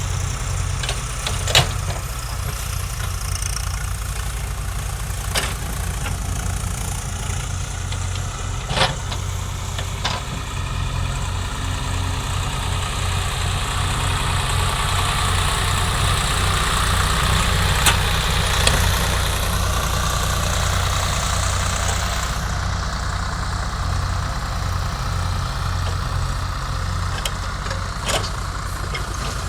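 Diesel engine of earth-moving machinery running steadily, with a few sharp knocks or clanks over it.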